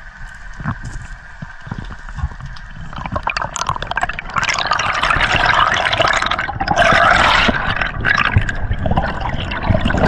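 Water splashing and gurgling, growing much louder about three seconds in.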